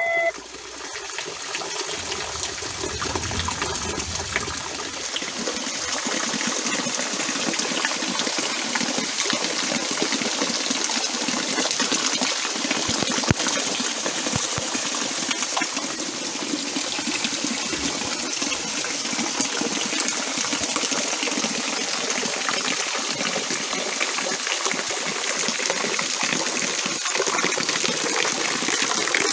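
Steady heavy rain, a dense even hiss of falling drops with water splashing and running.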